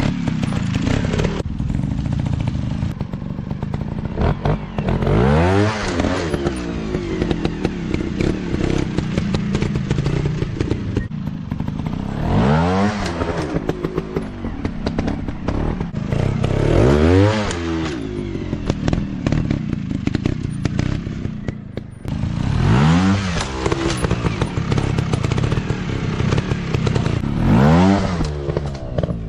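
Off-road dirt bike engines revving hard in repeated surges, the pitch climbing and dropping about five times, over steady clatter and crackle from the bikes on rough ground.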